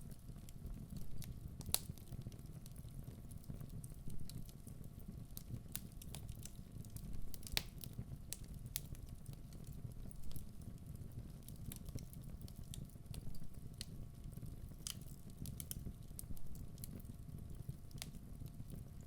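Wood fire burning in a fireplace: a steady low rumble of the flames with irregular sharp crackles and pops from the burning logs, two of them louder than the rest.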